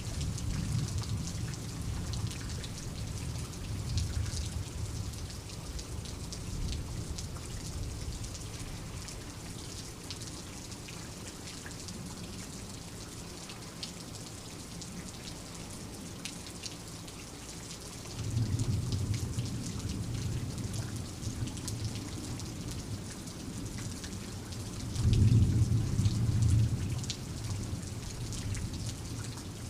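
Steady rain, with fine drop ticks through it, and low rolls of thunder: one fading over the first several seconds, another starting about eighteen seconds in, and the loudest about twenty-five seconds in.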